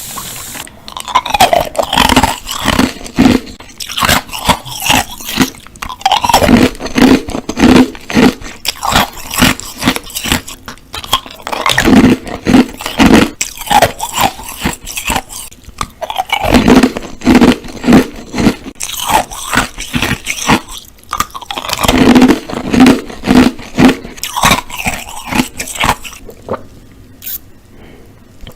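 Close-miked eating of Korean food: a person biting and chewing in rapid runs of sharp strokes, dying down near the end.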